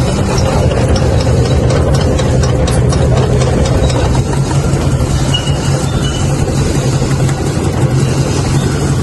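Toyota 1RZ four-cylinder petrol engine idling with a misfire: the number four spark plug is not firing although it is getting current.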